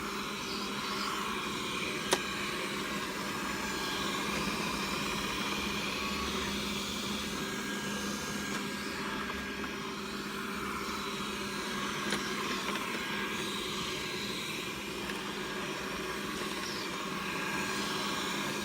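Xiaomi Mi robot vacuum running steadily mid-clean, its suction motor giving a constant hum, with a single sharp click about two seconds in.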